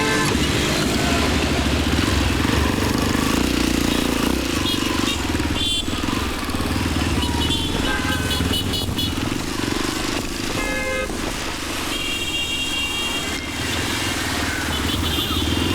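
Motorcycle engine running steadily while riding in traffic, with road and wind noise. A few short, higher-pitched tones come and go over it.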